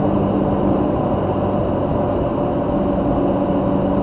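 Steady engine and road noise inside a moving car's cabin, with a constant low hum.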